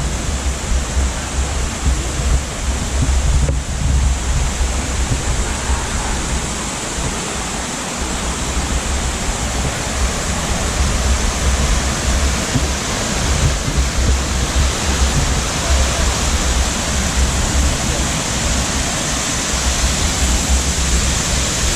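Waterfall pouring, a loud steady rush of falling water, with a low rumble underneath that comes and goes.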